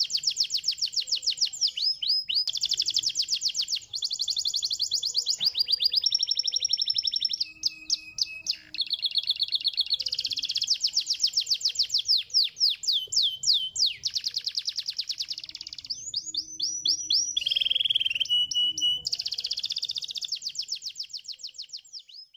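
A domestic canary singing: long, rapid trills of quick repeated notes, changing to a new trill every second or two, with a few short glides between phrases. The song fades out at the very end.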